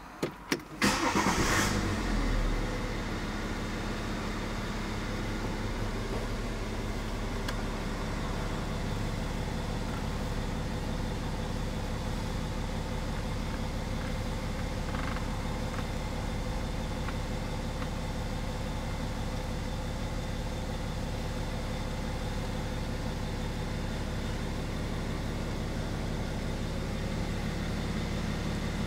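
BMW X5 engine starting: a couple of short clicks, then it catches about a second in with a brief rise in level and settles into a steady idle.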